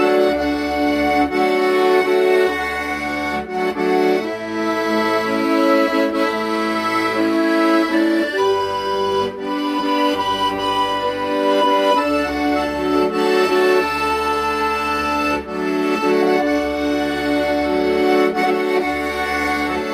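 Solo accordion playing a slow melody over sustained chords, with low bass notes sounding on and off beneath.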